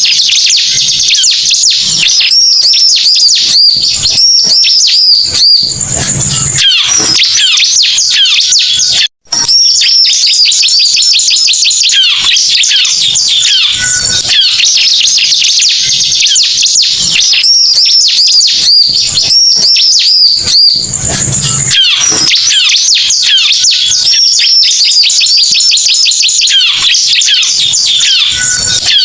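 Recorded song of the bar-winged prinia (ciblek) played as a trapping lure call: dense, rapid high chirps and trills, with a brief cut about nine seconds in. The same sequence repeats about every fourteen seconds, as a looped recording.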